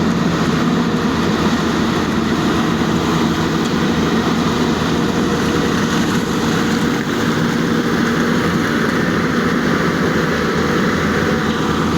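Excavator's diesel engine running steadily, a continuous low drone with a few steady tones in it.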